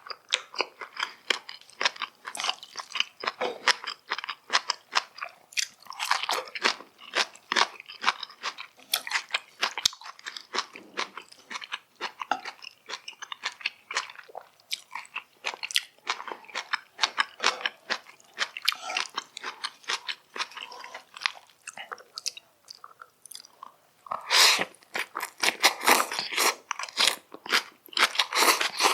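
Close-miked eating: a person chewing and biting food, with dense, irregular crunching clicks, louder for a couple of seconds near the end.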